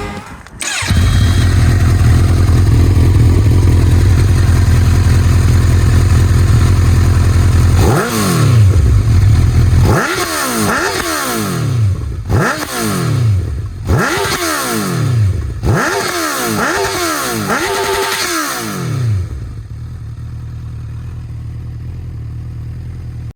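2019 Honda CB1000R's inline-four engine breathing through an Akrapovic full-system exhaust, idling steadily, then revved six times in quick succession, each rev rising sharply and dropping back, before settling back to a steady idle.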